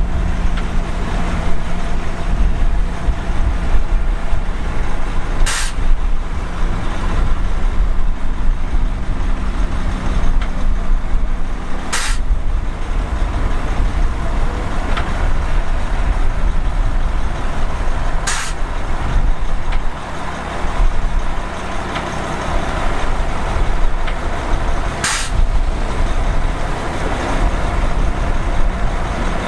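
Heavy diesel earthmoving machinery running steadily with a deep low rumble. Four short, sharp hisses or clicks cut through about every six and a half seconds.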